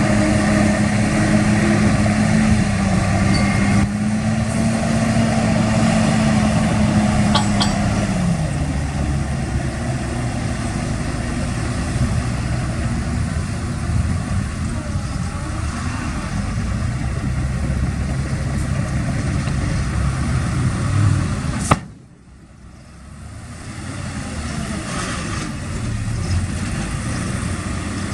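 Heavy diesel engine of an earthmoving machine running, its pitch steady and then falling about eight seconds in. A sharp click about three quarters of the way through, after which the sound drops away abruptly and builds back up over a few seconds.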